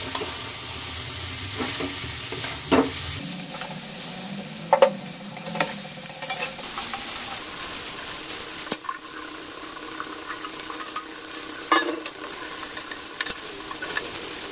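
Chowmein noodles being stir-fried in a kadai with vegetables and chicken: steady sizzling, with a spatula scraping and knocking against the pan several times.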